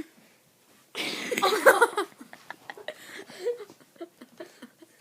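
A person's voice, loud about a second in, then quieter voices with a few small clicks and knocks.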